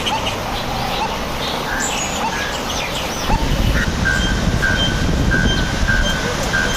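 Small birds chirping and whistling, one of them repeating a short high note about twice a second from about four seconds in, over a steady rushing noise that grows louder about three seconds in.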